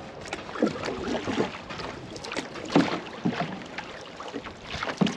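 Canoe being paddled across a lake: irregular paddle strokes splashing and dripping in the water.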